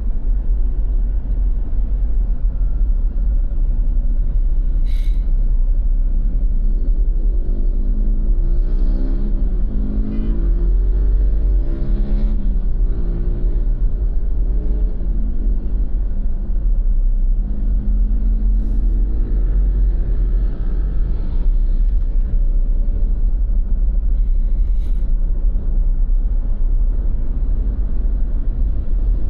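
Road traffic: motor vehicles passing, their engine notes rising and falling around ten and twenty seconds in, over a steady heavy low rumble. Two short sharp clicks, about five and twenty-five seconds in.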